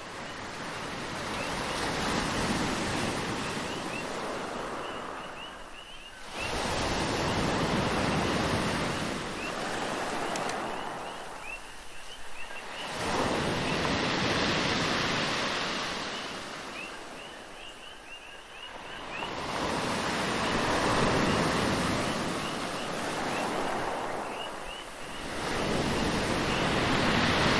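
Waves washing in, a rushing surge that swells and fades roughly every six seconds. Short high chirps are scattered through it.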